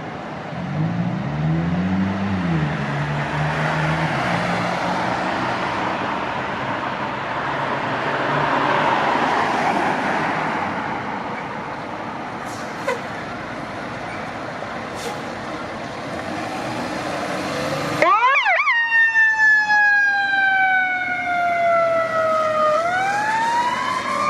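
Steady rushing traffic noise with a low engine hum, then an emergency vehicle siren starts suddenly and loudly about 18 seconds in. It gives a brief rapid yelp, then wails with a slowly falling pitch that turns and starts rising again near the end.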